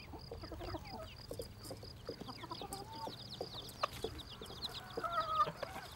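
A brood of bantam chicks peeping continually in short, high, falling notes, with their hen clucking lower among them. One longer, held call comes about five seconds in.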